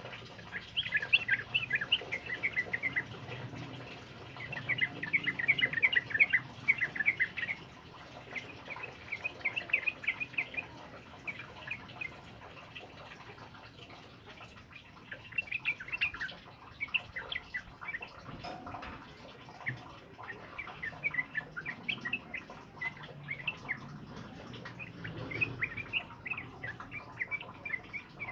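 A male yellow-vented bulbul (trucukan) singing its long, fast chattering song in repeated bursts of bright chirps, densest in the first ten seconds and looser after, over a steady hiss of heavy rain.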